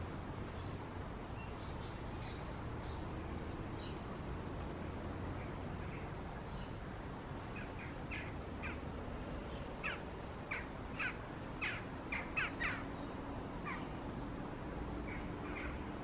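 Birds calling in the trees: a high chirp near the start and scattered faint chirps, then, about halfway through, a run of about nine short, sharp, harsh calls over steady low background noise.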